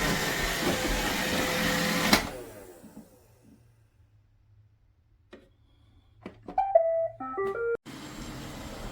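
iRobot Roomba 692 robot vacuum running, then shutting off about two seconds in, its motor whirring down over about a second. A few seconds later it plays a short electronic tune of stepped beeps.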